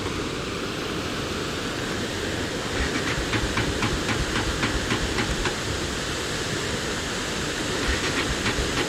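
Steady wind and road noise rushing over the microphone of a moving motorcycle, with a quick run of light clicks or rattles, about four or five a second, from about three to five and a half seconds in, and a few more near the end.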